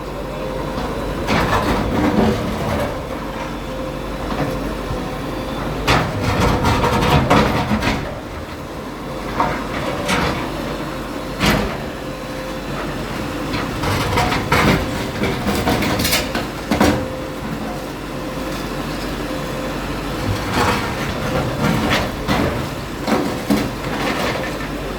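A bulldozer's diesel engine running, with repeated knocks, scrapes and crashes of a building being demolished.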